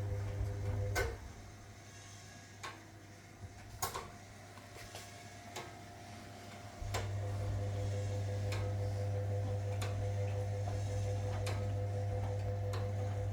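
1961 AEG Lavamat Noris washing machine running its wash: the motor hums, stops about a second in, leaving several seconds of scattered clicks and knocks, then starts again with a jolt about seven seconds in and runs steadily, the pause between the drum's turns.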